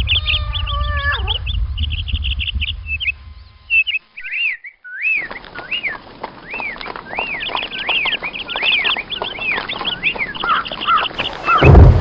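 Bird-like calls: rapid trills, then a long string of repeated rising-and-falling chirps, with a brief dropout about four seconds in. It sounds thin, as through a narrow radio-like band, with a low rumble under the first few seconds.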